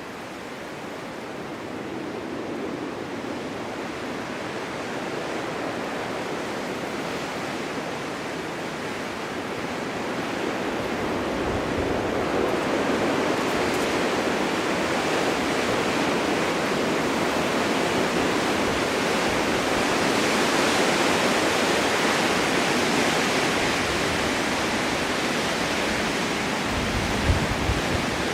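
Strong wind blowing steadily in a gust that builds over the first dozen seconds and holds at full strength. Near the end comes a brief low thump of wind buffeting the microphone.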